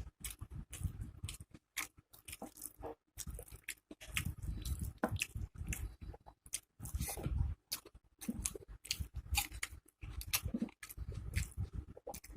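Close-miked eating: wet chewing, lip smacks and crunchy bites, in quick irregular clicks, from a person eating rice and curry by hand with crisp fritters.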